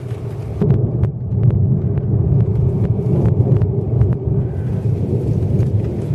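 Thunder rolling as a long, loud low rumble that builds about half a second in and carries on, with scattered ticks of raindrops.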